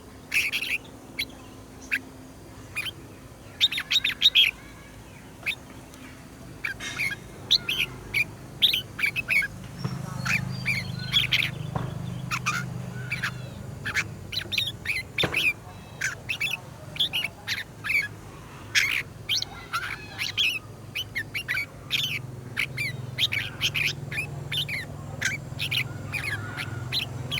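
Red-whiskered bulbuls singing: a busy run of short, quick chirping phrases, one after another. A low steady hum comes in underneath from about ten seconds in.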